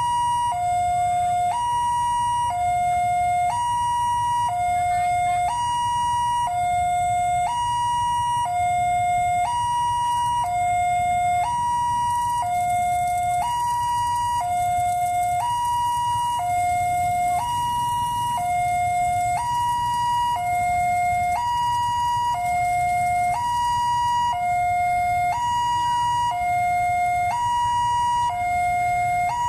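Railway level-crossing warning siren sounding a steady two-tone hi-lo alarm, switching between a high and a low tone about once a second, which warns that a train is approaching and the barrier is closing.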